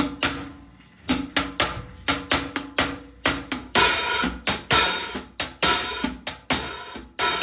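14-inch Omete hi-hats played in a drum-kit beat with kick and snare: separate crisp strikes at first, then the hats open into a continuous sizzling wash about halfway through.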